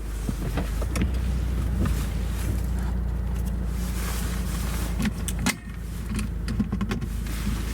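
Subaru WRX's engine running, heard inside the cabin as a steady low hum with small clicks and rattles. The engine note breaks off and dips sharply for a moment about five and a half seconds in.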